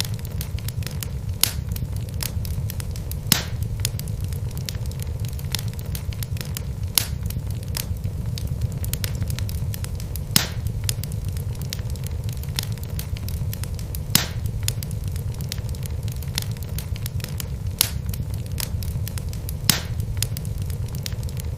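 Wood fire burning in a fireplace: a steady low rumble of flames with irregular sharp crackles and pops from the logs, a few louder snaps among many small ones.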